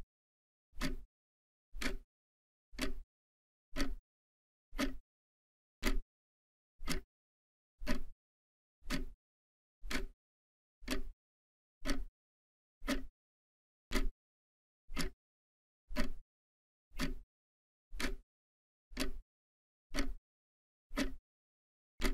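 Slow, even ticking: one short tick about once a second, with dead silence between the ticks.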